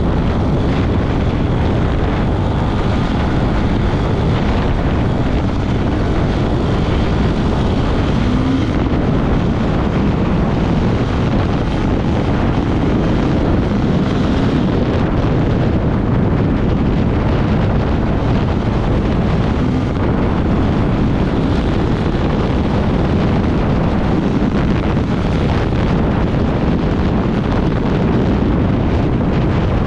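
Off-road motorcycle engine running steadily under way, with heavy wind buffeting the microphone.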